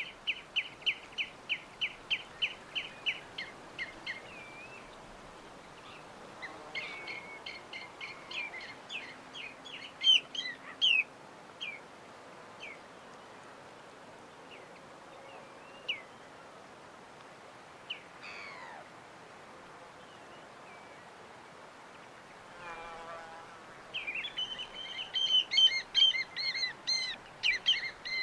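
Small birds chirping: a fast, even run of about four chirps a second at the start, then scattered calls, and a dense burst of chirping over the last few seconds, over a steady background hiss.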